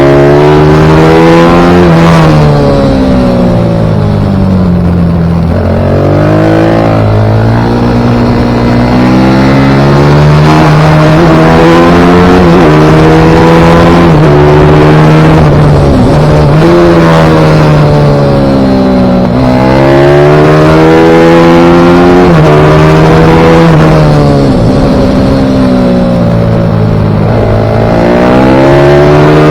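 Pit bike engine running hard round a track, its pitch climbing under acceleration and dropping off again several times, with a steadier stretch in the middle.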